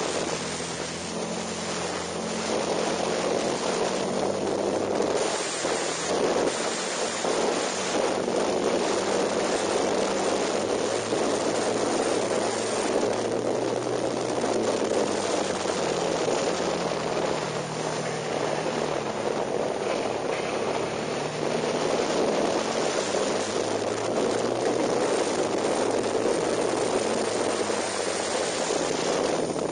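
KTM 990 Super Duke's V-twin engine pulling at speed, its note rising and falling as the bike accelerates and slows for corners, under heavy wind rush on the microphone.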